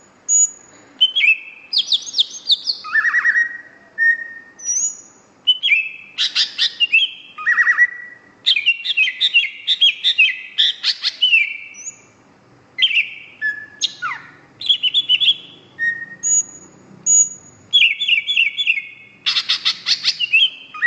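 Cucak ijo (green leafbird) singing vigorously in a long, varied song. Clear high whistles alternate with fast chattering runs of notes and quick sweeping notes, broken by short pauses.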